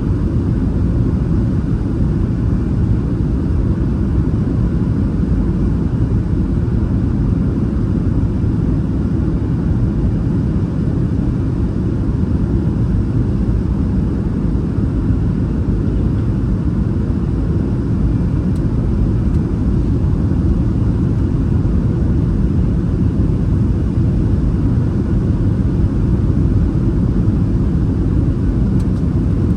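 Steady low rumble inside the cabin of a Boeing 737 in flight, the engines and airflow making an even noise that holds at one level throughout.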